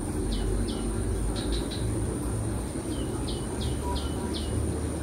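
A small bird calling with about ten short chirps that drop in pitch, some in quick runs of two or three, over a steady low rumble and a thin high whine.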